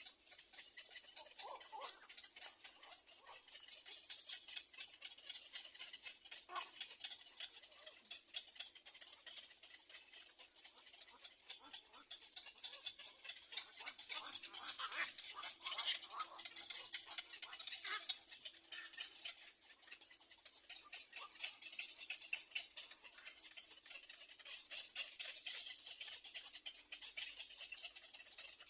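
Little egret chicks at the nest, a fast, continuous ticking chatter with scattered short calls.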